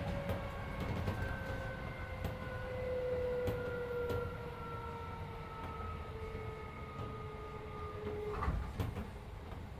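Keisei 3400 series electric train heard from inside the car while running: a low rumble with scattered wheel clicks, and a motor whine that falls slowly in pitch as the train slows, cutting off abruptly about eight seconds in, followed by a short knock.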